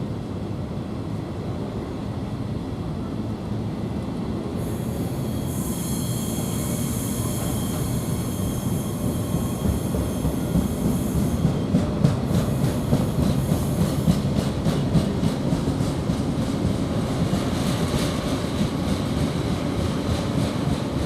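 Freight train moving through the station: a steady low rumble, with a high-pitched hissing squeal from about five to eleven seconds in, then wheels clacking rhythmically over rail joints from about two-thirds of the way through.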